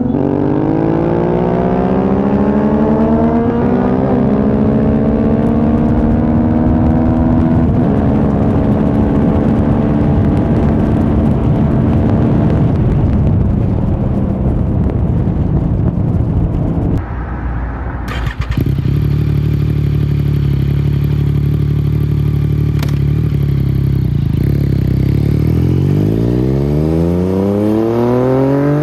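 Yamaha MT-09 three-cylinder engine accelerating hard, its pitch rising steadily through the first half. Near the middle it drops away briefly, then runs at a steady pitch and climbs again near the end.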